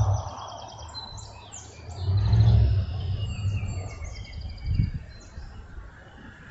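A flock of small birds chirping, many short calls and trills overlapping, thinning out over the last second or two. Low rumbles sit under it, loudest about two seconds in, with a shorter one near five seconds.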